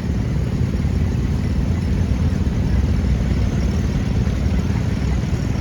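A 1965 John Deere 110 garden tractor's engine running steadily as it drives past in a parade.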